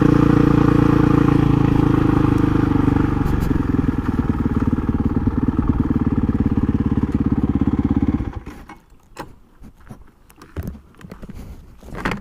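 A 2006 Honda CRF450 supermoto's 450cc single-cylinder engine running on the move with wind and road noise. Its note eases about three seconds in to a slower, pulsing beat, then cuts off suddenly, leaving only faint clicks and rustles.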